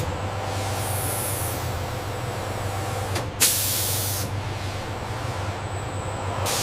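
Steady low machinery hum, with a sharp click and then a burst of compressed-air hissing lasting just under a second, about three and a half seconds in.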